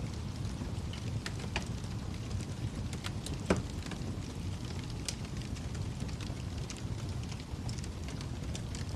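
Wood fire crackling in a fireplace: a steady low rumble of burning with scattered sharp snaps and pops, the loudest pop about three and a half seconds in.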